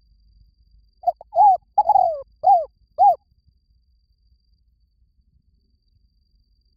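A spotted dove cooing: one phrase of five hoarse notes in about two seconds, the third longer and falling in pitch.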